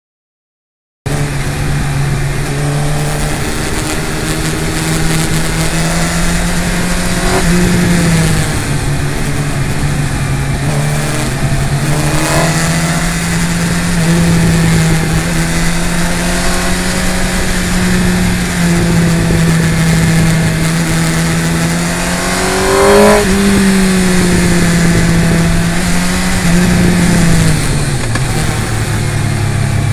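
Inline-four sportbike engine running at speed, starting about a second in, its pitch rising and falling with throttle and gear changes, with one louder rev that climbs and drops about three-quarters of the way through. Wind rushes over the fork-mounted microphone throughout.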